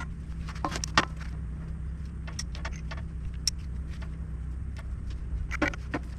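A steady low engine-like hum with scattered metallic clinks and knocks, a sharper knock about a second in and a light ringing tick around the middle.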